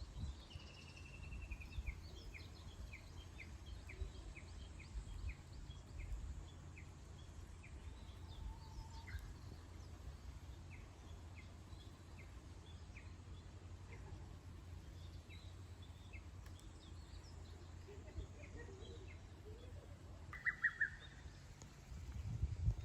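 Wild birds chirping: a run of short, sharp chirps repeated all through, opening with a quick falling trill and with a louder call about twenty seconds in, over a steady low rumble.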